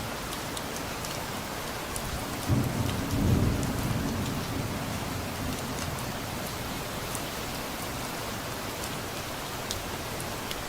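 Steady rain falling, with scattered drips. A low roll of distant thunder begins about two and a half seconds in and fades away over the next few seconds.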